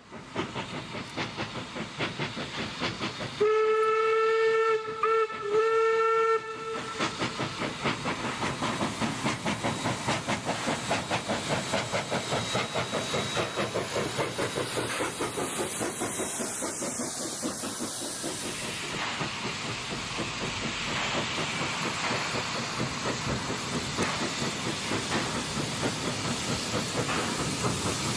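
Steam locomotive working, its exhaust beating rapidly and regularly over a steady hiss of steam. About three seconds in, it sounds a loud steam whistle held for about three seconds with two brief breaks.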